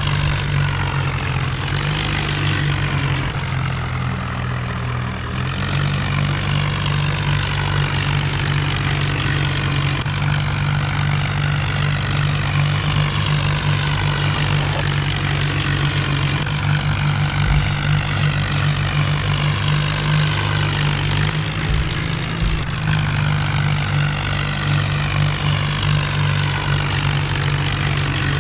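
Diesel tractor engine running steadily and loudly, its tone shifting slightly about five seconds in.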